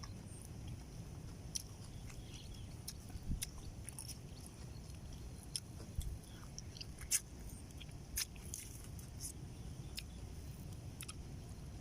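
Faint chewing and eating sounds: a person biting and chewing food, with scattered light clicks and ticks over a low background rumble.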